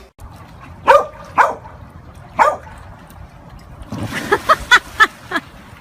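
A dog barking: three single barks spaced out, then a quicker run of about five barks near the end.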